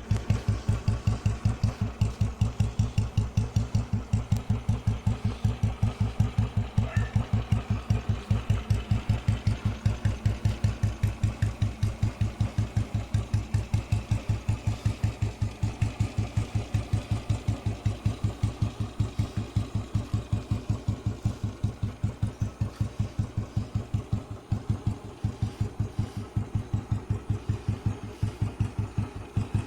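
1990-model Royal Enfield single-cylinder motorcycle engine idling with its steady, even thumping beat. The beat falters briefly about three-quarters of the way through.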